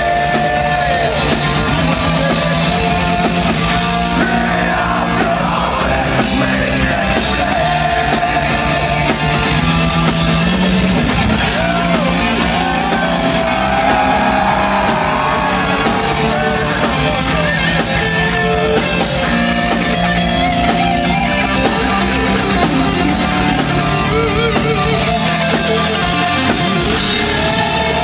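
Heavy metal band playing live and loud, with distorted guitars, drums and singing over a melodic line that slides in pitch.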